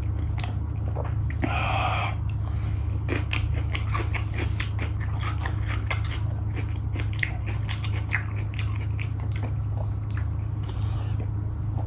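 Close-miked chewing while eating: a run of wet mouth clicks and smacks, with a short louder noisy sound about one and a half seconds in. A steady low hum sits underneath.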